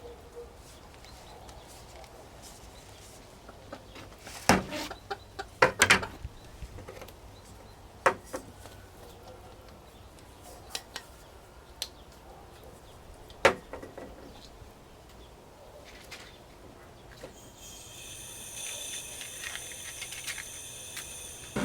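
Several sharp knocks and clicks, a few of them in a quick cluster, over a quiet outdoor background; about three-quarters of the way through, a steady high trilling of several held tones sets in.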